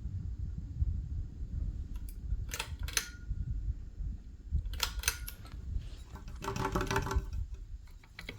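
Wobbly ceiling fan running with a steady low rumble, with a few sharp clicks about two and a half, three and five seconds in, and a short pitched sound about seven seconds in.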